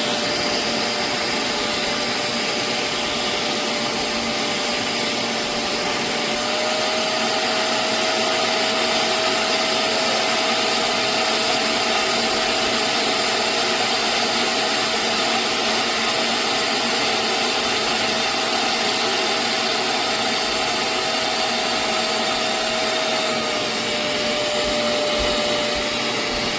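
Hoover CleanSlate Plus portable spot cleaner's suction motor running steadily with a whine. The whine rises slightly in pitch about six seconds in and drops back near the end.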